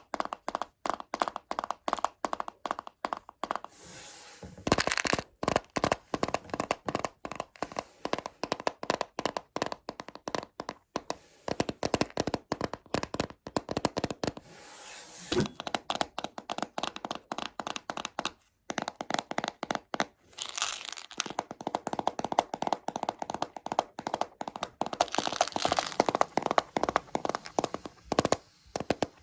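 Rapid tapping on a plastic container of Choco Baby chocolates, a dense run of sharp clicks, broken by a few brief scratchy stretches.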